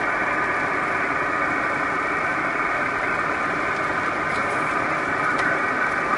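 Steady running noise of a car heard from inside the cabin while driving: engine and road noise at an even level, with a few faint clicks near the end.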